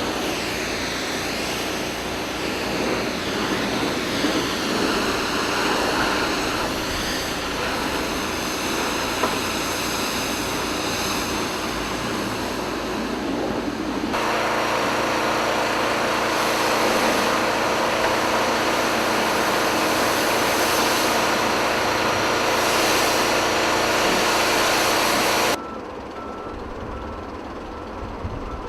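Heavy trucks running, a steady mix of engine noise with no speech. The sound changes abruptly twice, dropping markedly in level near the end.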